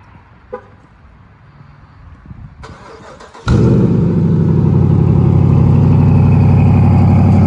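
Car's cold start. After a short electronic beep, the starter cranks for about a second, then the engine catches with a sudden loud jump and runs steadily.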